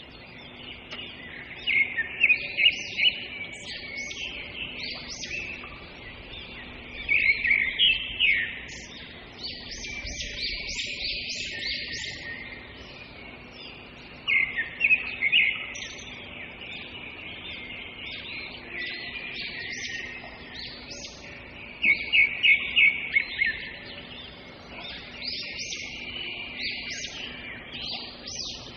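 Songbirds chirping and twittering, with recurring louder bursts of rapid, repeated chirps every several seconds.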